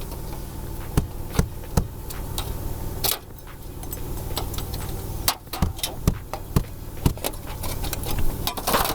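Scattered sharp taps and clicks of hand tools working metal step flashing, three close together about a second in and a denser run in the second half, over a steady low hum.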